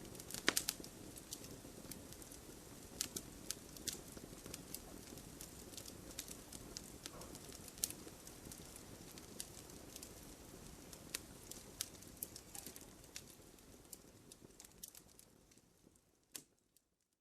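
Wood fire in a fireplace crackling: sharp irregular pops over a low steady rustle of burning logs. The sound fades out near the end.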